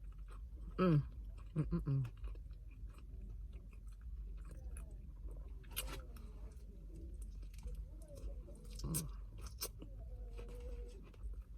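A person chewing and crunching food close to the microphone, eating fries and a burger, with scattered small crunches and mouth clicks. Two short voiced sounds come about one and two seconds in.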